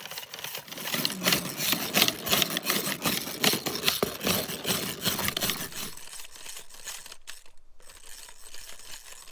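Hand whisk beating a mixture in a pot, with rapid clinking and scraping that stops about six seconds in.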